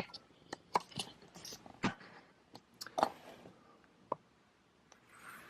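Handling noise: a series of light, separate clicks and taps, a few of them sharper than the rest.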